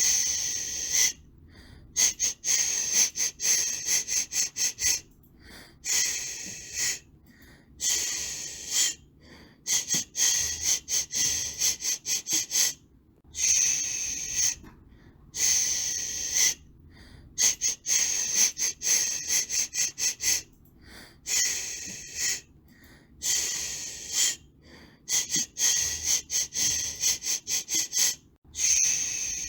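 Rhythmic 'shh' shushing hiss for soothing a baby: a long hiss, then a run of quick short ones, with brief silent gaps, the pattern repeating every few seconds.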